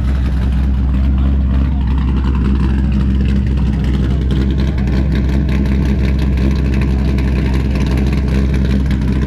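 Car engine running steadily with a constant deep hum, no revving.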